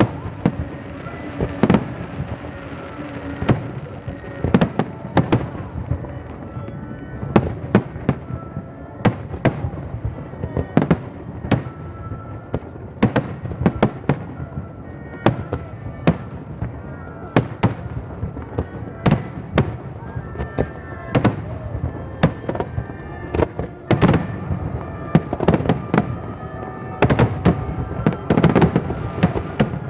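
Aerial fireworks bursting in quick, irregular succession: a long run of sharp bangs, sometimes several a second, with music playing underneath.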